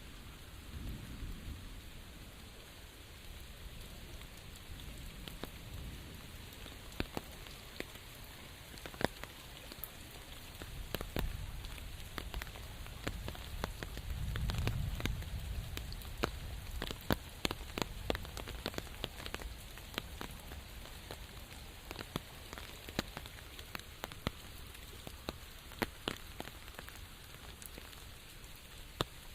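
Steady rain with many distinct drops striking a surface, sharp drips scattered all through. A low rumble swells briefly about halfway through.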